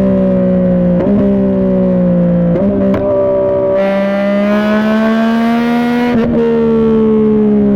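2021 Yamaha MT-09's 890 cc three-cylinder engine through a Dominator GP3 aftermarket exhaust, running loud at highway speed. Its pitch sags slowly, steps up, climbs under acceleration, then drops sharply about six seconds in, with brief breaks in the note like quickshifted gear changes.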